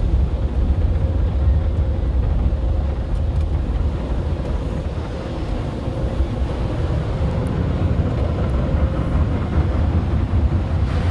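Automatic car wash running around the car, heard from inside the cabin during the soap stage: a steady low rumble with a lighter hiss of spray.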